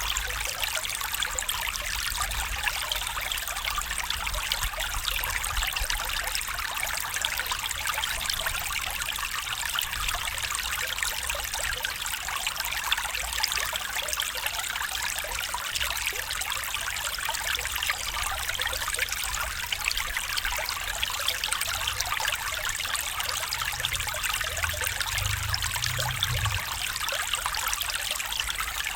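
A stream flowing, a steady trickling rush of water, with a low rumble underneath that swells briefly a few seconds before the end.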